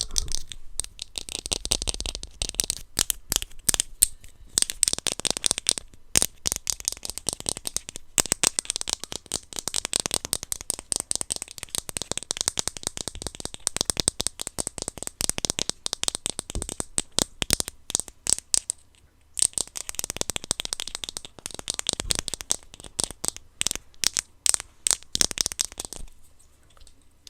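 Rapid, irregular clicking and crackling from hands working plastic blind-box packaging, with brief pauses.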